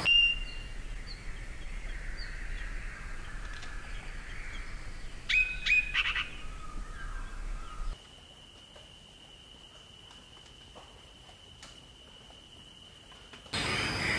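Wild birds calling in open country: a string of short high chirps, then a louder cluster of calls about five seconds in. After about eight seconds the sound drops quieter, leaving a single steady high-pitched tone.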